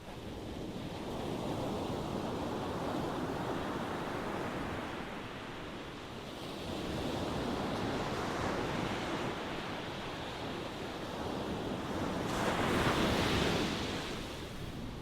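Ocean waves washing in one after another, each a swell of rushing surf that rises and falls away; the loudest breaks near the end.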